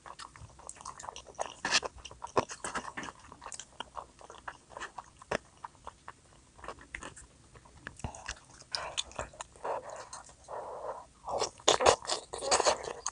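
Close-up eating sounds: a person biting and chewing food with crunchy clicks and crackles, the chewing growing denser near the end.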